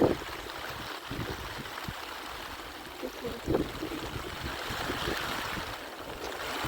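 Steady hiss of heavy rain with wind, broken by scattered knocks and rustles of handling, the loudest right at the start and another about three and a half seconds in.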